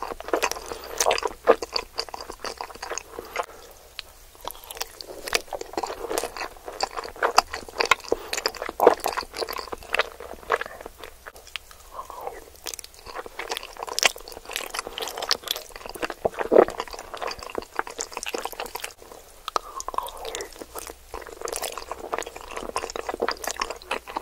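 Close-miked chewing of cheesy macaroni and cheese, a dense run of small clicks and mouth sounds, with a fresh spoonful taken about halfway through.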